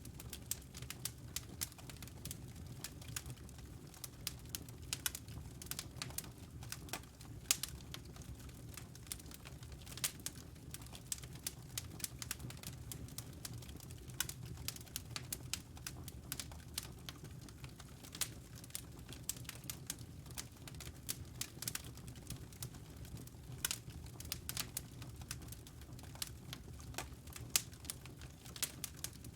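Wood fire crackling, with many irregular sharp snaps and pops over a low steady rumble.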